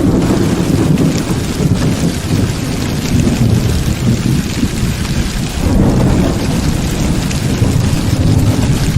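Heavy rain falling steadily, with low rolling thunder rumbling beneath it; the rumble swells about six seconds in.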